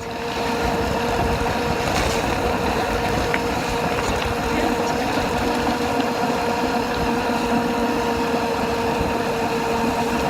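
Dirt bike engine running at a steady, unchanging pitch while riding, with wind noise on the microphone.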